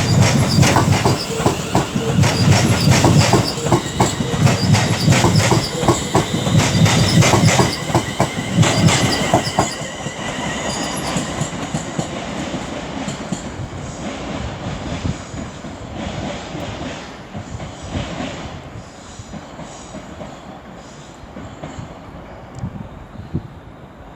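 Class 350 Desiro electric multiple unit departing, its wheels clicking rapidly over rail joints and pointwork with some high-pitched wheel squeal. It is loud for about the first ten seconds, then fades steadily away as the train pulls out.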